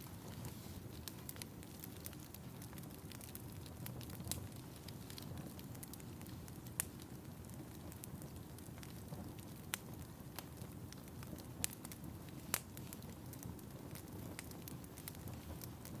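A fire in a fireplace crackling steadily over a low rumble, with irregular small snaps and a few louder pops.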